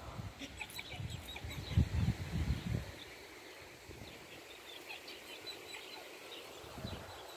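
Birds chirping in the background with many short high calls. Over the first three seconds there are loud low rumbles and thumps on the microphone, loudest about two seconds in.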